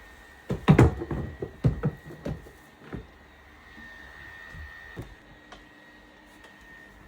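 A quick run of knocks and clatters as things are handled and set down while a cabinet is being emptied and cleaned, then a couple of lighter taps about five seconds in, over the steady hum of electric fans.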